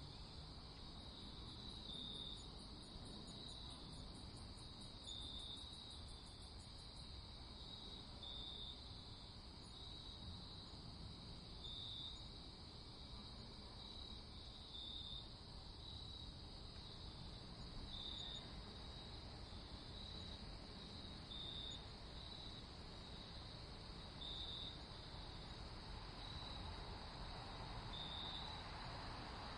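Crickets chirping in a night ambience: short chirps repeating about every second and a half over a steady low rumble. A second, higher and faster trill joins for the first several seconds.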